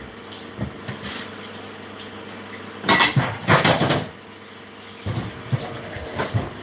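Kitchenware clattering: a burst of clinks and knocks about three seconds in, then a few lighter knocks, over a steady low hum.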